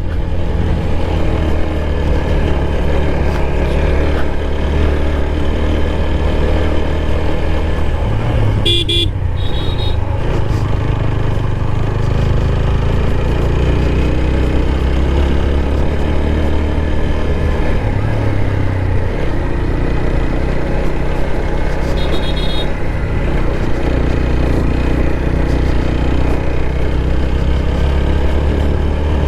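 Motorcycle engine running steadily under load as it climbs a hill road. A horn beeps twice, briefly: about nine seconds in and again a little after twenty seconds.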